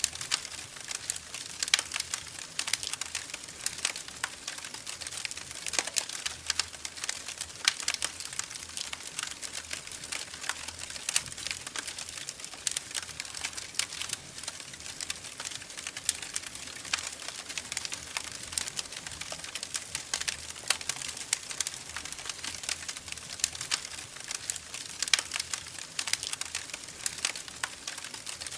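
Wood fire in a fireplace crackling: a dense, irregular run of sharp pops and snaps over a soft hiss.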